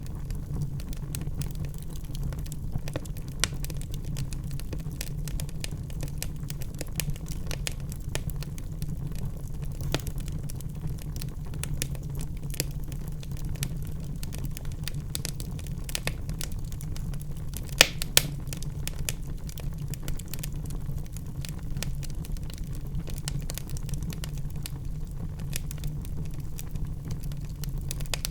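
Wood fire burning in a fireplace: constant crackling over a low rumble of the flames, with two louder pops in quick succession a little past the middle.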